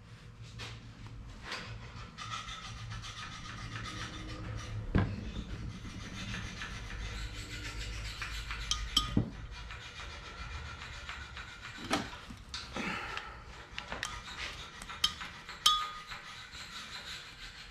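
Steady rubbing and scrubbing with a rag soaked in mineral spirits, broken by a few sharp knocks and clinks at uneven intervals, the loudest about five, nine, twelve and sixteen seconds in.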